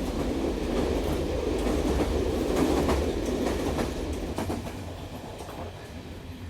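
Train running on rails, wheels clicking over the rail joints with a low rumble; it swells to a peak a couple of seconds in and then fades away.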